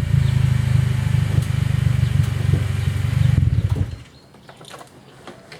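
Honda Accord CL9's four-cylinder engine idling steadily through an aftermarket Greddy Evo2-style exhaust with an OBX muffler, then cutting off suddenly about four seconds in. Faint clicks follow.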